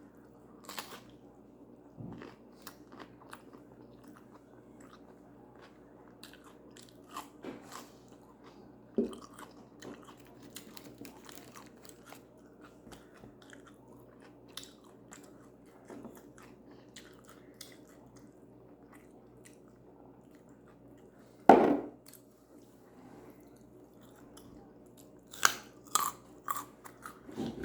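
Close-miked chewing and biting of food, crispy chicken wings and quesadilla, with small wet clicks and crunches throughout. There is a loud bite about three quarters of the way in and a run of louder crunches near the end.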